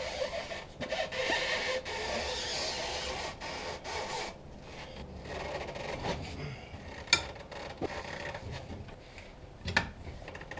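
Rough scraping and rubbing for about four seconds, then quieter handling with scattered light knocks and clicks.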